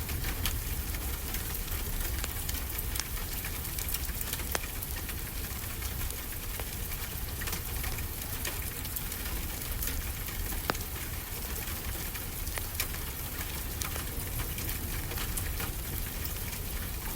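Steady rain mixed with a crackling wood fire: a continuous hiss with a low rumble beneath, dotted with sharp pops and snaps, the loudest about four and a half and ten and a half seconds in.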